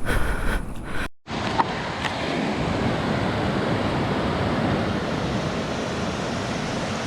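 Steady rush of river water running over rocks, starting after a brief drop-out of the sound about a second in.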